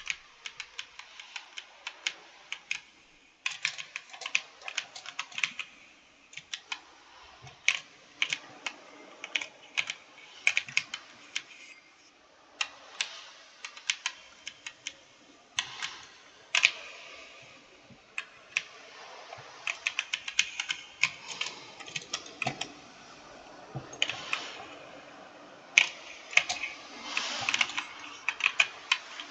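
Typing on a computer keyboard: fast runs of crisp key clicks in bursts of a few seconds, separated by short pauses.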